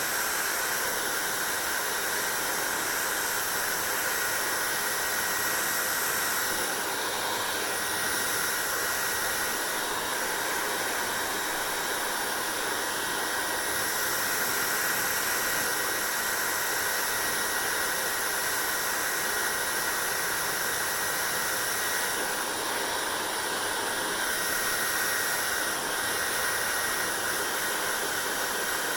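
Hair dryer running steadily: a constant rush of air with a thin, steady whine, its tone shifting slightly a few times.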